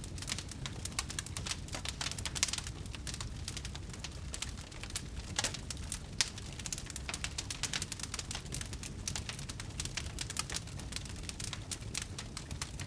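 Wood fire burning in a fireplace, with dense irregular crackles and pops over a low steady rumble of the flames.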